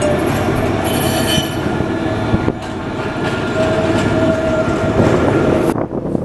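A rail vehicle running along the track: a loud, steady rumble with a thin steady tone over it. It cuts off abruptly near the end.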